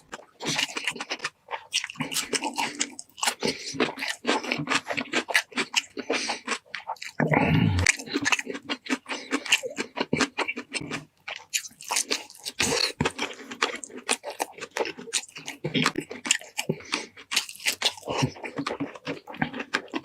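Chewing and crunching of roast chicken and pork shank: many irregular crunches and mouth smacks in quick succession, with a louder stretch about seven seconds in.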